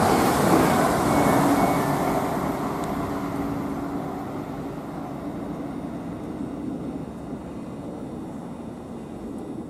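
Class 360 electric multiple unit running past and away down the line. Its rumble fades steadily as it recedes.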